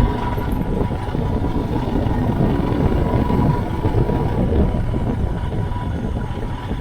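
Royal Enfield Himalayan's 411 cc single-cylinder engine running steadily as the motorcycle is ridden on a rough road.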